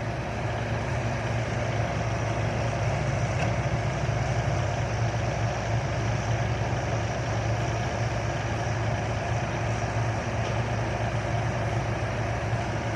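Diesel engine of heavy earthmoving machinery idling steadily.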